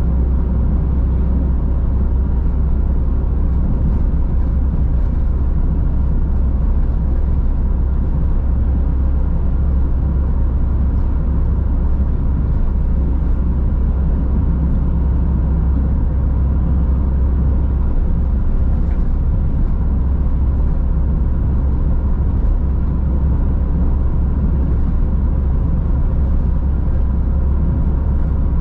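Car driving at a steady speed: a constant deep rumble of tyres on the road and the engine, with no changes.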